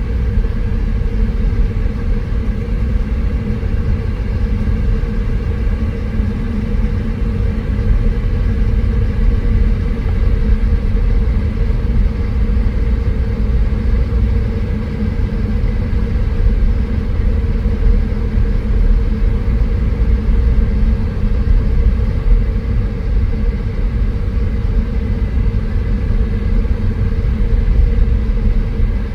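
Car driving slowly on an unpaved, dusty road, heard from inside the cabin: a steady low rumble of engine and tyres.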